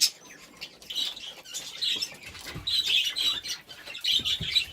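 Budgerigars chirping and chattering in short bursts, about a second in, around three seconds and again near the end, with a few sharp clicks and soft knocks in between.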